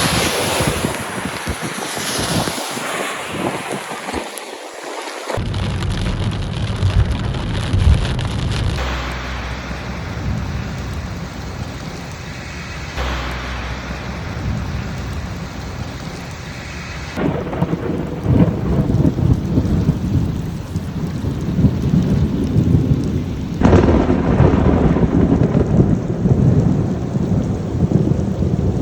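Heavy rain pouring down, with a deep rumble underneath. The sound changes abruptly several times, as at cuts between recordings.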